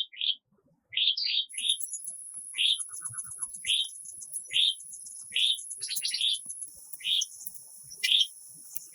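A bird repeating a short, high chirp about once a second. A steady high-pitched whine joins about one and a half seconds in.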